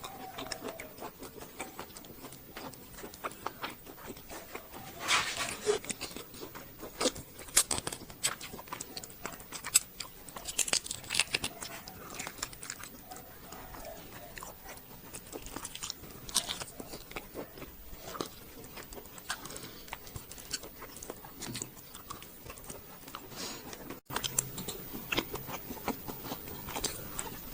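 Close-miked eating sounds: irregular biting and chewing, with sharp wet clicks and short crunches.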